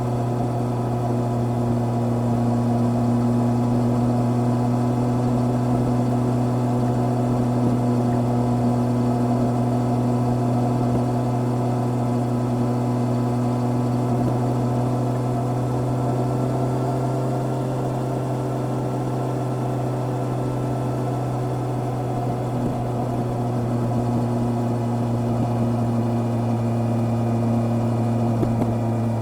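Honda CB650R's inline-four engine running at a steady cruise, its note drifting a little higher and then back down through the middle.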